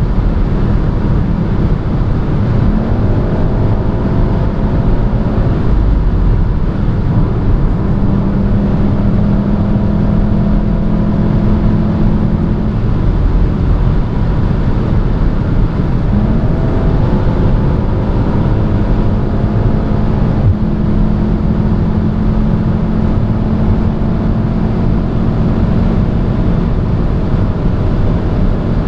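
Onboard sound inside a hot hatchback's cabin at high Autobahn speed: its turbocharged 2.0-litre four-cylinder engine runs steadily under heavy road and wind noise. The engine note fades and comes back a couple of times.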